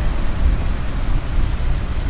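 Ocean surf washing steadily, with a deep, continuous rumble underneath.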